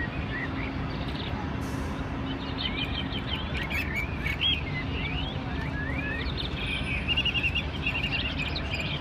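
Small birds chirping and twittering: many short high chirps, swooping calls and a quick trill about seven seconds in, over a steady low background hum.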